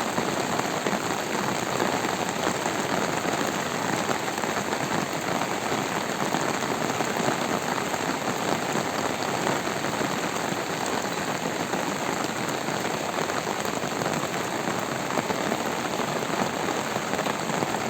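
Steady heavy rain falling and pattering on surfaces, an even hiss with no let-up.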